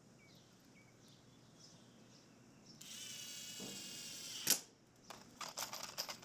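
A cordless drill runs for about a second and a half, a steady whine that stops with a sharp click. A quick run of clicks follows near the end.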